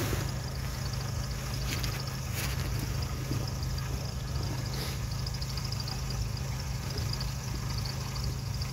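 Steady low hum of a car engine idling, with a few faint clicks about two and five seconds in.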